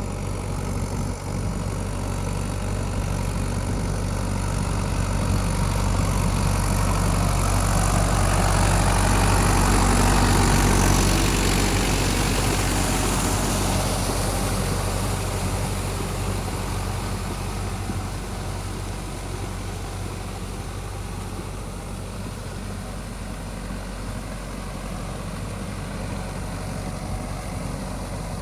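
Mahindra YUVO Tech+ 585 DI 4WD tractor's diesel engine running steadily. It grows louder to a peak about ten seconds in, then eases off again.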